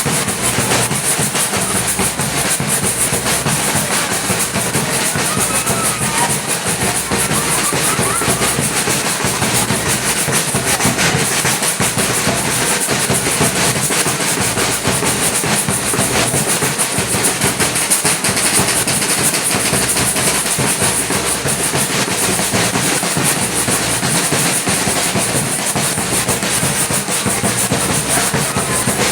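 A samba batucada percussion ensemble drumming continuously in a dense, steady groove, with a constant high shimmer over the drums.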